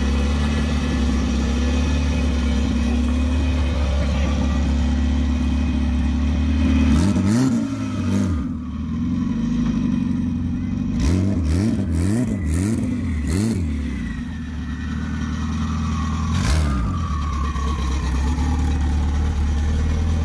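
Turbocharged Honda Civic hatchback engine idling steadily, then revved in a series of quick throttle blips, about six, mostly bunched in the middle.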